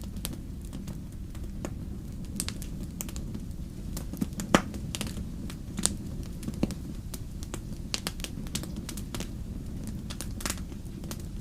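Fire crackling: a steady low rumble under irregular sharp pops and snaps, the loudest pop about four and a half seconds in.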